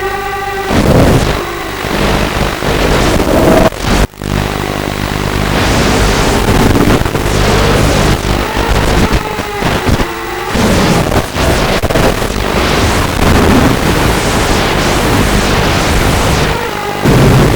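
Walkera F210 racing quadcopter's brushless motors whining in flight, their pitch rising and falling again and again with throttle, under heavy wind noise. The sound drops out sharply for a moment about four seconds in.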